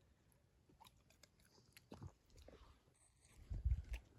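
Dogs eating their food: faint, scattered chewing and crunching clicks, with a louder low thud or two near the end.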